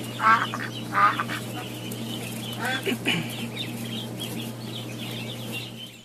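Bird calls at a seabird colony: two loud short calls about a second apart near the start, then a falling call around three seconds in. Faint chatter of other birds runs over a steady low hum.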